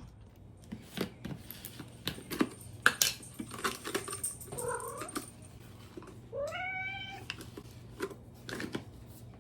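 A domestic cat meowing, with a longer meow past the middle that rises and then holds. In the first half there is a run of short, sharp clicks and crunches.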